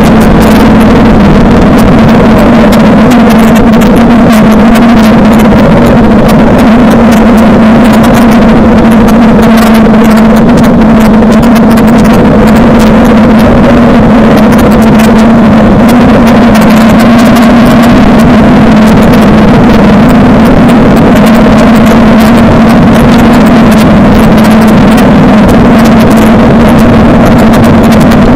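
Suzuki DL650 V-Strom's 645 cc V-twin engine running at steady revs on the move, loud and close. A constant crackle runs over it.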